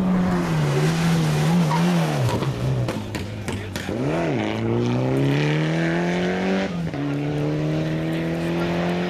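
Rally car engine running hard, its revs climbing under acceleration and falling sharply at gear changes, with a clear drop near seven seconds before the revs climb again; a quick rise and fall in revs around four seconds.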